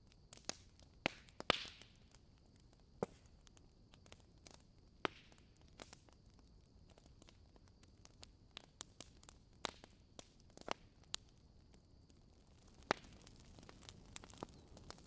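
Firewood crackling in a fireplace: irregular sharp pops and snaps over a faint hiss, the loudest pop about one and a half seconds in.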